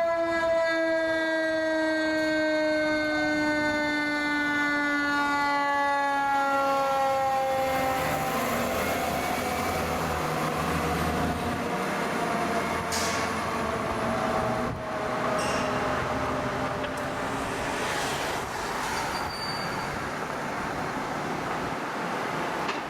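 A fire engine's mechanical siren, a Federal Q, winding down in one long, slowly falling tone that fades out about eight seconds in. After that comes the pumper's engine and tyre noise as it drives past.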